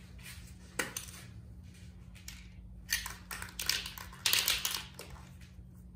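Aerosol spray paint cans being picked up and handled: a sharp metallic clack about a second in, then a few short clattering bursts around the middle.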